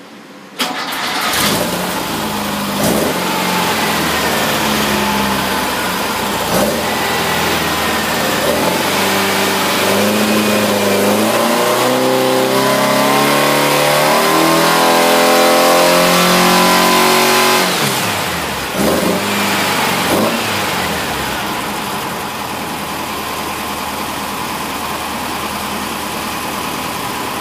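A 2074 cc air-cooled Volkswagen-type flat-four on an engine dyno starts up about half a second in and runs. From about eight seconds in it is brought up in steps to high revs. It then drops back sharply, is blipped twice and settles to a steady idle.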